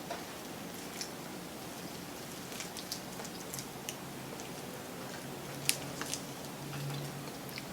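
Scattered small crisp crackles and clicks of crunchy fried chicken being bitten and chewed, with one sharper crack a little over halfway.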